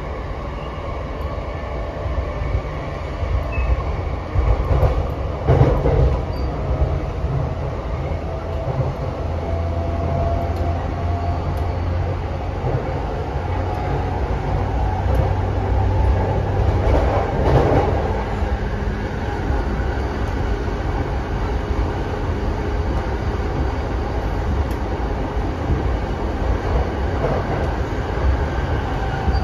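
Interior running sound of a JR East E233-7000 series commuter train with Mitsubishi IGBT-VVVF inverter drive: a steady rumble of wheels on rail with a faint motor whine that rises slowly through the first ten seconds or so. The rumble swells louder twice, about 6 and 17 seconds in.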